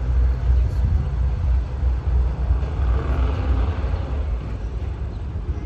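Low, steady rumble of a train rolling along the track, heard from the open back platform of a moving caboose.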